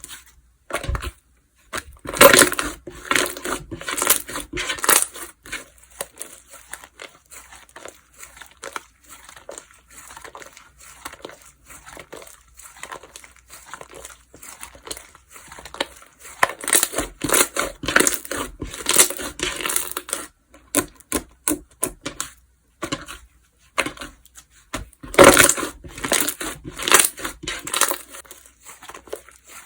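Slime being pressed, squished and poked by hand: a run of quick wet clicks and pops, with three louder spells of dense crackling as it is worked harder.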